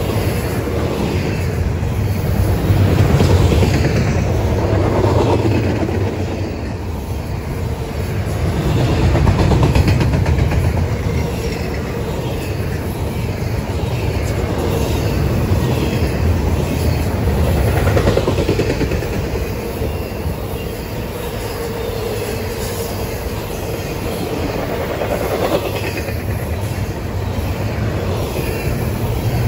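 Double-stack intermodal freight train rolling past: the container well cars' wheels rumble and clatter over the rails, swelling and easing every several seconds as the cars go by, with a faint steady whine from the wheels.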